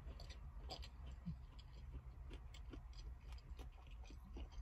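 Faint chewing of a mouthful of po' boy sandwich: soft, irregular mouth clicks and smacks over a low steady hum.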